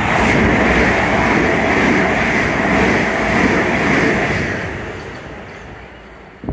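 Southern electric multiple-unit passenger train running through the station at speed without stopping: a loud rush of wheel-on-rail and air noise that peaks as it passes, then fades as it draws away. The sound cuts off suddenly at the very end.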